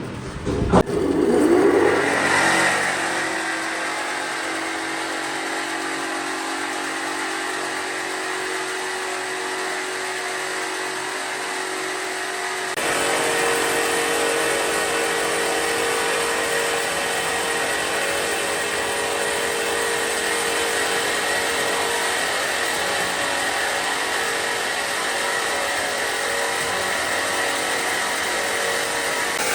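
An electric power tool's motor spins up and then runs steadily with a whine. About thirteen seconds in it gets louder and its pitch steps up.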